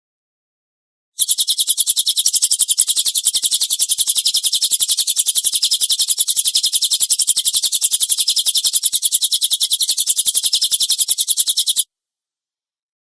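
A songbird's harsh rapid-fire rattling call, a fast even string of sharp high notes at about ten a second, starting about a second in and holding steady for some ten seconds before cutting off abruptly.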